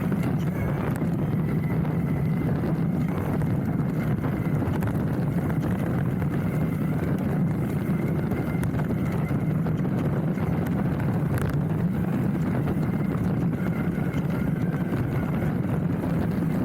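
Hardtail mountain bike rolling down a dirt trail: steady rumble of the tyres on the ground and rattle of the bike, picked up through a handlebar-mounted camera.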